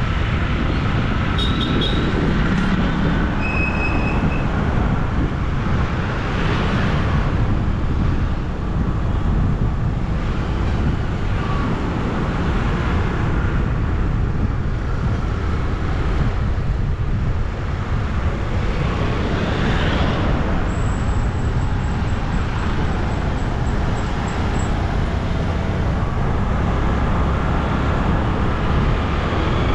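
Steady road and wind rumble from a moving bike, heaviest in the low end, with a few short high beeps in the first few seconds.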